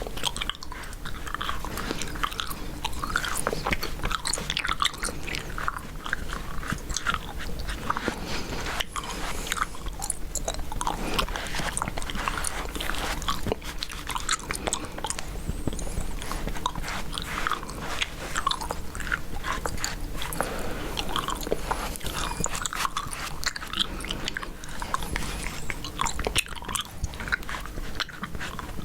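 Chewing gum close to the microphone: a steady, dense run of small mouth clicks and smacks.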